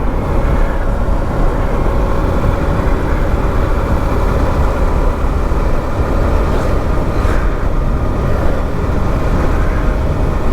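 Motorcycle on the move: steady wind rush and buffeting on the microphone, with the bike's engine running steadily underneath at cruising speed.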